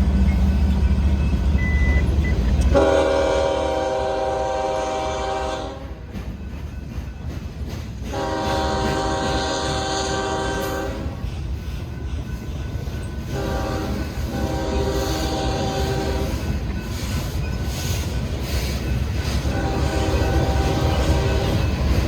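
A diesel locomotive's engine rumbles heavily as it passes. Then its air horn sounds in four separate blasts of about three seconds each, over the rumble and rail noise of the train.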